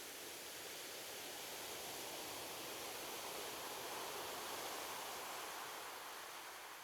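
Ocean surf: a wave washes in on the shore as a soft, even hiss, swelling about two-thirds of the way through and then beginning to ebb.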